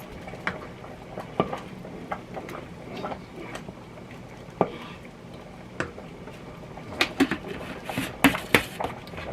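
Thick ham and white bean soup boiling hard in an electric kettle, bubbles popping in irregular sharp plops that come thicker near the end: the heat is too high.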